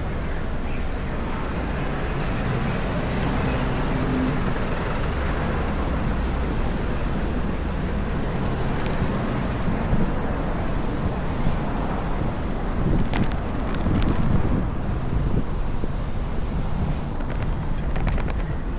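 Strong wind buffeting the microphone: a loud, gusting low rumble, with a few short clicks near the end.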